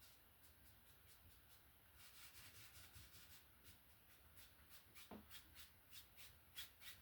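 Near silence with faint, irregular scratchy strokes, like a paintbrush rubbing on canvas.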